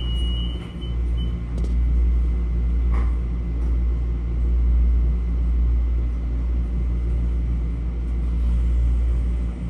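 Steady low rumble of a Metro-North M7A electric multiple-unit railcar running along the track, heard from inside the car. A high intermittent beeping tone stops about a second in.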